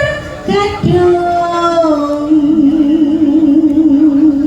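Sinden singing in a Javanese gamelan piece: her voice glides down through a few notes, then holds a long note with a wide, regular vibrato from about two seconds in, over a steady accompanying tone.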